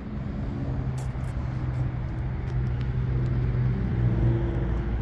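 Twin-turbo Pontiac's engine running steadily with a low, even drone, a little louder about four seconds in. It is loud enough that the owner finds it not quiet enough, and a bystander calls it rowdy.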